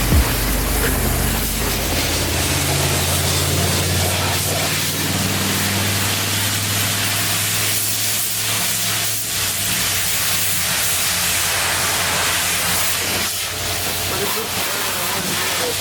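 Steady hiss of water spraying onto a truck's body from a wash nozzle, with a low motor hum underneath that fades after the first few seconds.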